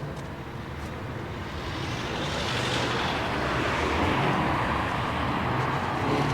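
A car driving close by: a low engine hum with tyre and road noise that swells over the first couple of seconds and stays loud.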